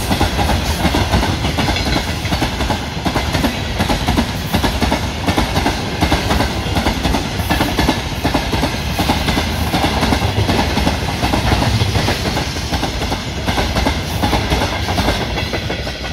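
Freight train of open gondola wagons rolling past close by: a steady loud rumble with the clickety-clack of wheelsets over rail joints. The sound cuts off abruptly at the very end.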